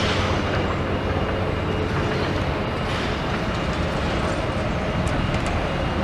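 Steady vehicle rumble with a faint steady hum, unbroken throughout.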